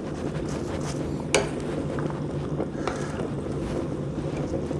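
Sliced beef bulgogi and vegetables frying on a hot griddle plate: a steady low frying noise, with a few light clicks of utensils against the plate.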